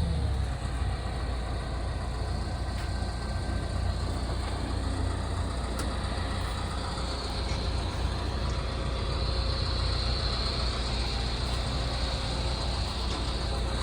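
Diesel engine of a Liebherr R926 Compact tracked excavator idling steadily at low revs. A faint high whine joins about halfway through.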